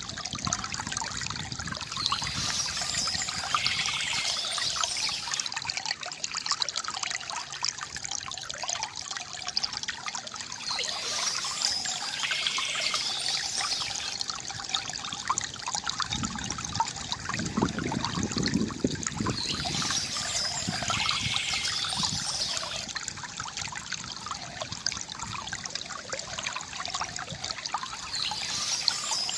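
Water from a bamboo fountain trickling and gurgling steadily, with a brighter splashing stretch recurring every eight or nine seconds.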